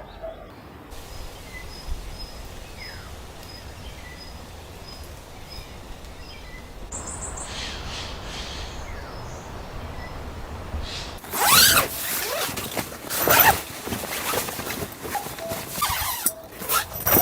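Quiet outdoor background with a faint, evenly repeated high chirp. From about eleven seconds in come several loud scraping, rustling strokes of gear being handled close by.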